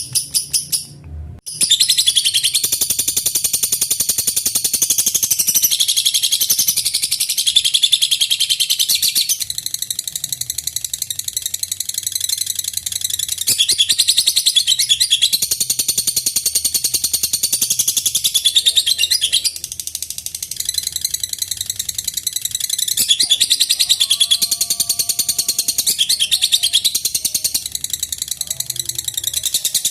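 Lovebird 'ngekek': a long, unbroken run of rapid, high-pitched chattering song. It resumes after a short break about a second and a half in and carries on without pause, the extended song of a lovebird in full singing form.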